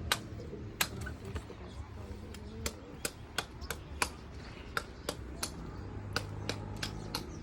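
A run of sharp knocks or taps, about two a second at an uneven pace, over a steady low rumble.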